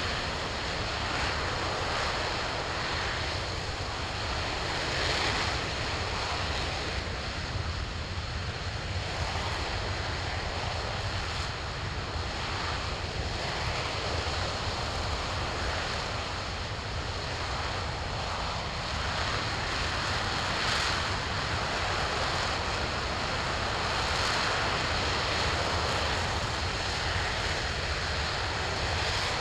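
RS-25 liquid-fuelled rocket engine firing steadily on a test stand: a continuous, even rushing noise that holds at the same level throughout.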